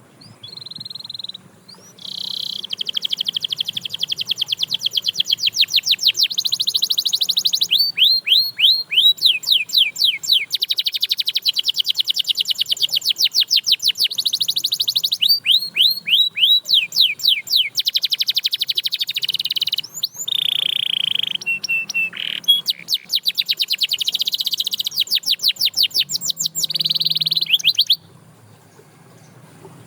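Canary singing a continuous song of fast trills and rolls, with runs of quick downward-sweeping notes and a few short held notes. The song stops shortly before the end.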